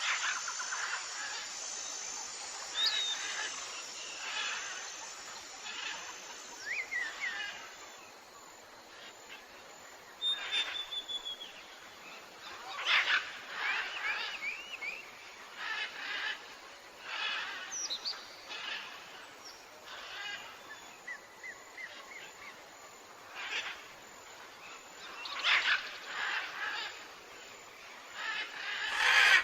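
Several birds calling in a forest: scattered chirps and short whistled calls, some sliding in pitch, over a steady hiss.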